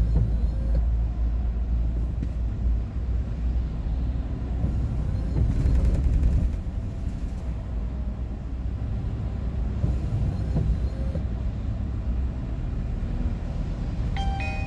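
Road vehicle driving at speed, heard from inside: a steady low rumble of engine and tyre noise that swells briefly about six seconds in.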